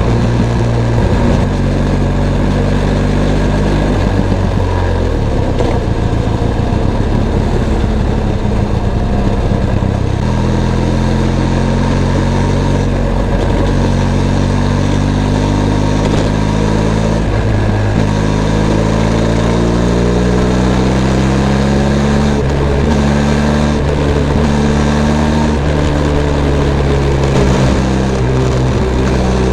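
Benelli TRK 502 X's 500 cc parallel-twin engine running under way, its pitch climbing and dropping several times with throttle and gear changes.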